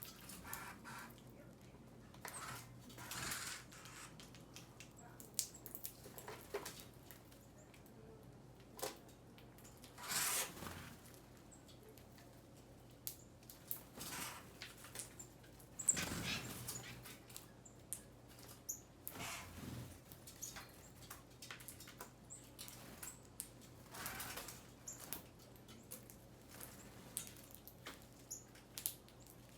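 Small birds feeding: faint scattered pecks, taps and rustles, with a few longer flutters of wings, over a low steady hum.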